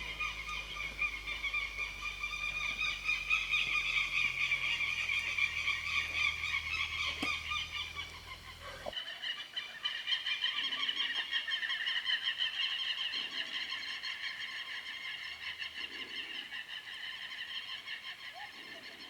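Dense chorus of calling frogs or insects: a steady, fast trilling that goes on unbroken. A low rumble underneath stops suddenly about nine seconds in.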